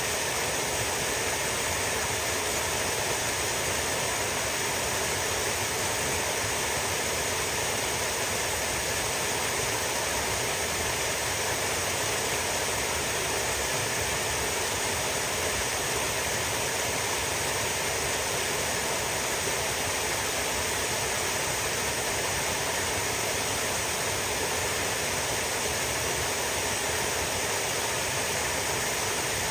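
Steady rushing of a flowing stream, an even, unbroken water noise with no separate splashes standing out.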